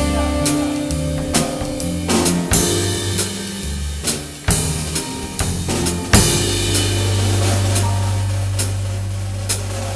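Drum kit in music: snare, bass drum and cymbal strikes over low bass notes, with one long held low note from about six seconds in.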